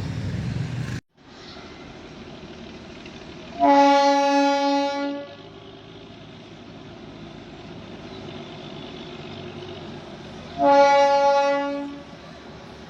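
Darjeeling Himalayan Railway locomotive sounding its horn: two blasts of about a second and a half each, several seconds apart, one steady tone over a low background rumble.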